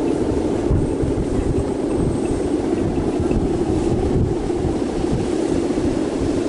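Strong wind buffeting the microphone in irregular low gusts, over a steady drone.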